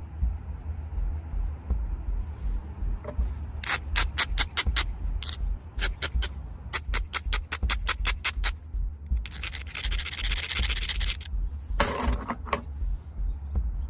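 Knapping a stone point with a copper flaker. It starts with two runs of sharp, ringing clicks, then about two seconds of hissing scraping as the edge is ground, and a short, coarser scrape near the end.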